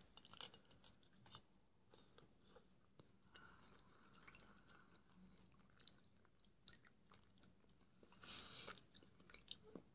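Faint chewing and soft wet mouth clicks of a man eating a mouthful of soup with rye bread, with a slightly louder smack about eight seconds in.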